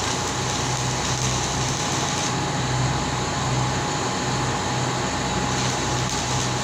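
Steady machinery noise: an even hiss with a faint steady tone and a low hum that swells and fades unevenly.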